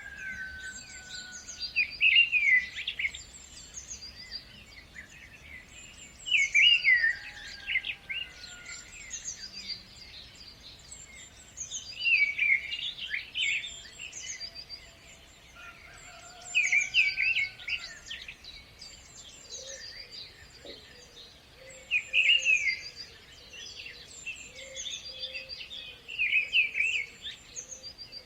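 Birds singing: a phrase of quick, high chirps comes back about every five seconds, with fainter whistled notes from other birds between the phrases.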